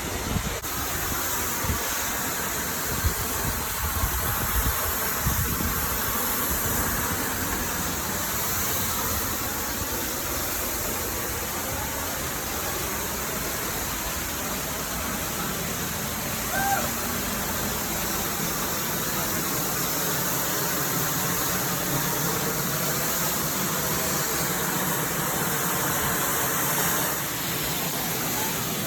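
Steady rushing of a waterfall, with wind buffeting the microphone in the first several seconds and a brief chirp about seventeen seconds in.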